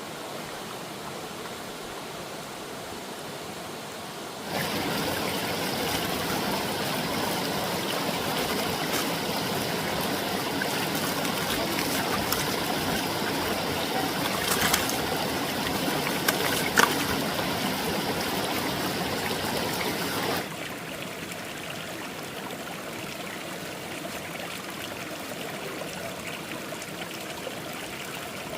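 Mountain stream water flowing and trickling steadily. It gets much louder for a long middle stretch that begins and ends abruptly, with a couple of sharp knocks near the middle.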